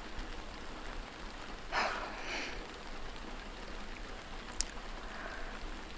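Steady rain falling. A soft breathy sound comes about two seconds in, and a small click about four and a half seconds in.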